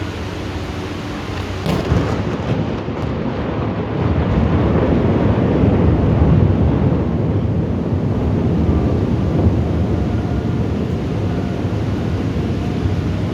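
Thunder in a thunderstorm: a sharp crack about two seconds in, then a long low rumble that swells and rolls on, over a steady hiss of rain.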